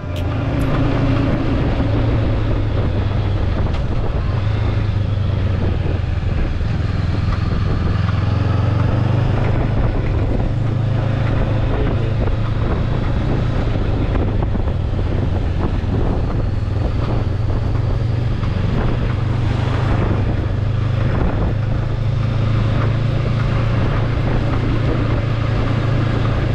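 Motorbike engine running at a steady cruising speed, with wind noise on the microphone.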